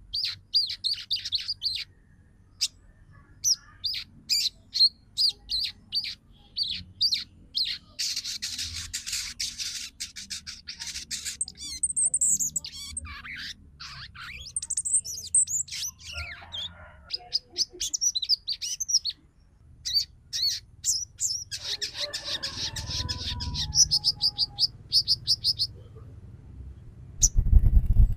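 Female sogon twittering: fast runs of short, high-pitched chirps, broken by dense trilled stretches and a few sweeping whistled notes. A low thump near the end.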